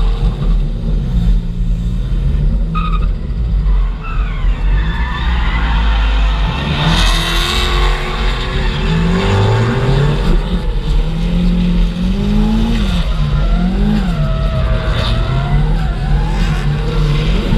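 A drift car's engine revving up and down over and over, its pitch rising and falling every second or two, with tyre squeal, loudest about seven seconds in.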